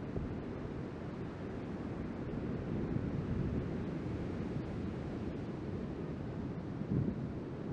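Wind buffeting the microphone, with the steady wash of ocean surf beneath it.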